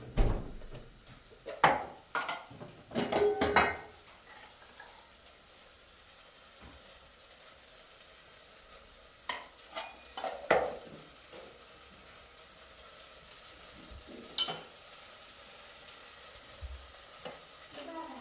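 Food frying in a pan with a steady faint sizzle, and metal utensils clinking and knocking against the pan, in a quick cluster at the start, again about ten seconds in, and once more near the end.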